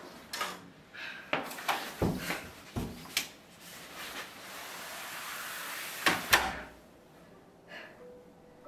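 A key-card room door being unlocked and opened: a run of sharp clicks and knocks from the lock and handle, then two loud knocks about six seconds in as the door shuts.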